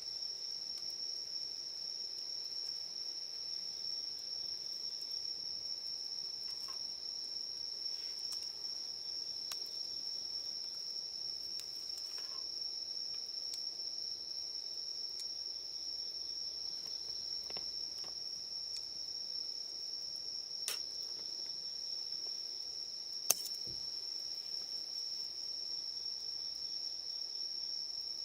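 Steady, high-pitched trilling of crickets in an evening insect chorus. A few faint sharp clicks sound over it, the sharpest about three-quarters of the way through.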